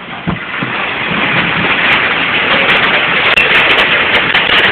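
Hail coming down hard: a dense, loud rattle of hailstones striking hard surfaces, with a sharp thump just after the start, building over the first couple of seconds and staying heavy.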